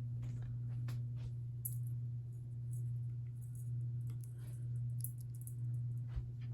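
SMC Emperor ceiling fan running on low speed: a steady low motor hum that swells and fades slightly about once a second, with faint scattered ticks.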